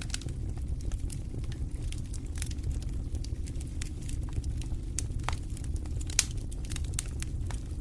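Fireplace fire crackling: many small sharp pops over a steady low rumble of flame, with one louder pop about six seconds in.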